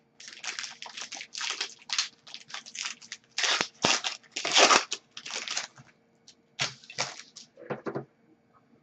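A hockey card pack's foil wrapper being torn open and crumpled, in irregular crinkling bursts that stop about a second before the end.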